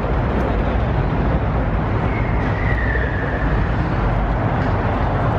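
Steady low rumble of idling car engines under dense outdoor background noise, with a faint high whine briefly near the middle.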